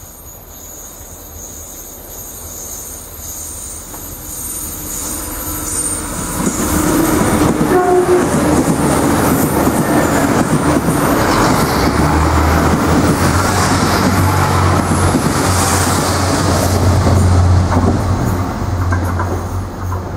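Irish Rail 29000 class diesel multiple unit approaching and passing: the rumble of wheels on rail and the drone of its diesel engines build for several seconds, stay loud for about twelve seconds as the cars go by, then begin to fade near the end.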